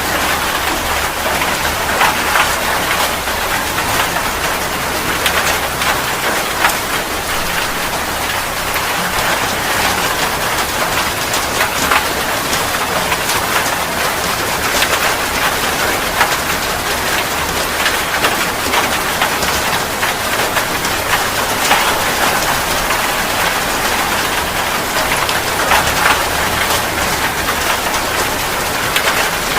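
Steady rain falling: a dense, even hiss dotted with many sharp ticks of individual drops.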